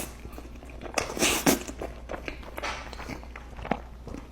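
Close-up eating sounds: irregular wet chewing with soft smacks and mouth clicks, loudest about a second in.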